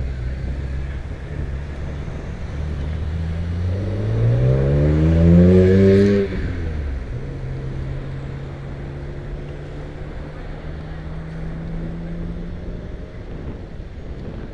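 A motor vehicle's engine accelerating, its pitch rising steadily and loudest about six seconds in before dropping away suddenly, followed by a steadier lower engine tone over a constant low rumble.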